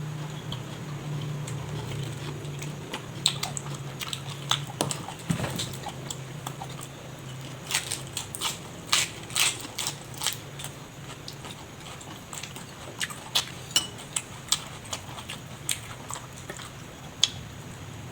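A person chewing and biting food close to the microphone, with irregular sharp clicks and wet smacks that come in clusters through the middle and later part. A steady low hum runs underneath.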